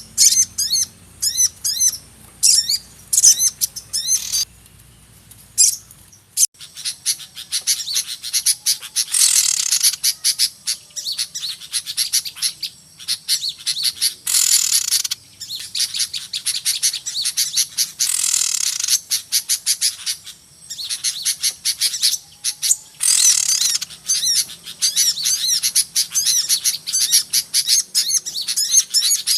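Many small songbirds chirping and calling over one another, a noisy mixed-flock lure recording of the kind played to draw small birds in for trapping. For the first six seconds there are separate short chirp phrases repeated; after that the calls merge into a dense, continuous chatter that swells several times.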